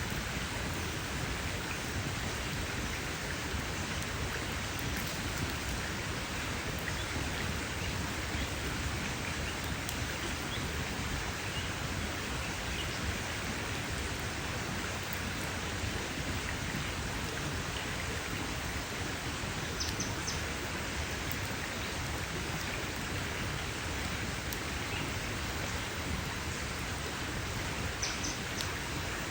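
Campfire crackling steadily, a dense hiss of small pops and snaps with no lull. Two short high chirps come through, about two-thirds of the way in and again near the end.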